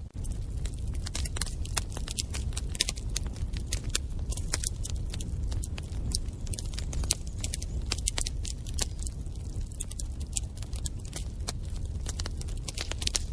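Wood fire crackling in a fireplace: a dense, irregular run of sharp snaps and pops over a steady low rumble of the flames.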